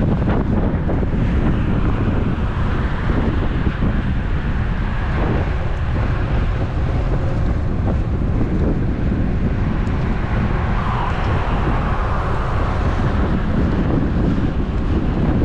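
Wind buffeting a GoPro action camera's microphone while riding a road bike at speed: a steady, loud rushing rumble with road noise under it.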